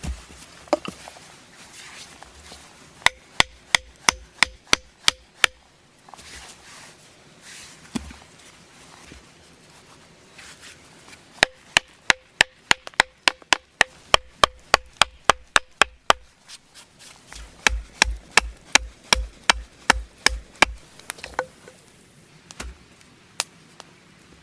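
Wood being struck hard over and over, in three quick runs of sharp knocks at about three to four blows a second. Each blow has a short ring, and the last run lands with heavier thuds.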